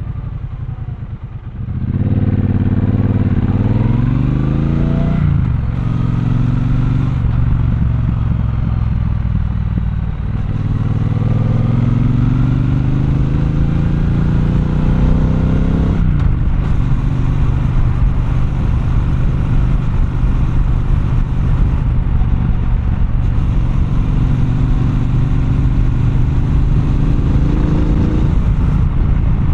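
Triumph Bonneville Bobber's 1200 cc parallel-twin engine heard from the rider's seat. It pulls away from low revs and climbs in pitch through the gears, with breaks at the shifts, then holds a steady cruise.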